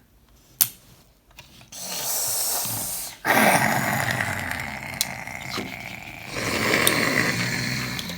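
Drawn-out rasping dinosaur growls for a pretend dinosaur. A shorter, quieter one comes first, then a louder, longer one starts about three seconds in.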